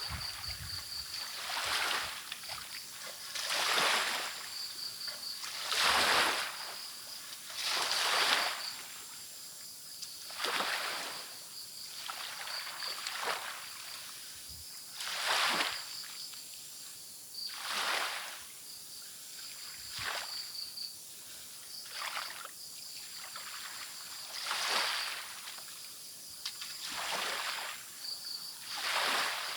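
Small ocean waves washing onto a beach, one swell about every two seconds, over crickets chirping steadily.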